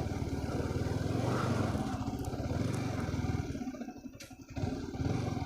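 Motorcycle engine running while riding; it eases off about four seconds in, then picks up again.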